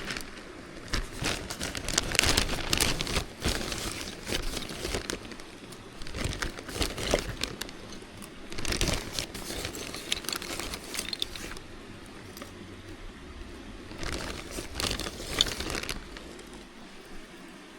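Crinkling and rustling of crinkly material being handled, in four irregular bouts with quieter gaps between.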